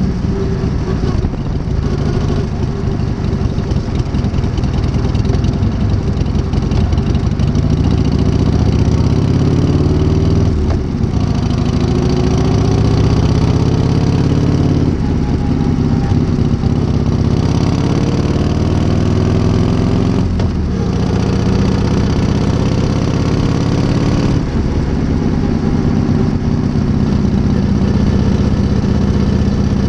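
1978 Harley-Davidson Shovelhead V-twin engine on a new S&S carburettor, running and being revved several times. Each time the pitch climbs slowly over a few seconds, then drops back to idle.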